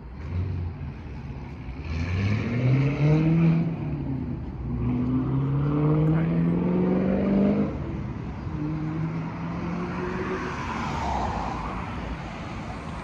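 A car engine accelerating: its pitch rises, drops as it shifts gear, and rises again through the next gear, then settles to steady running.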